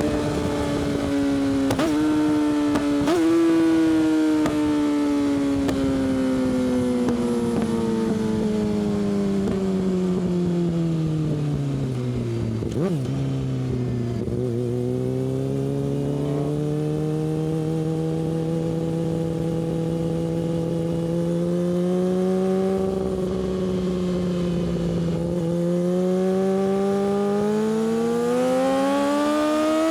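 Yamaha R6 inline-four sport bike with an Akrapovič exhaust, heard on board. Two quick downshifts lift the revs near the start, then the engine winds down steadily as the bike slows, runs at low, even revs for a while, and climbs again near the end as the rider accelerates.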